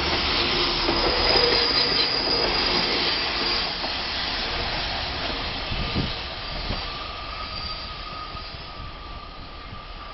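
FEVE 2700-series diesel multiple unit passing close by and running away round a curve, with thin steady squeals from its wheels on the curve. The sound is loud at first and fades steadily as the train draws away.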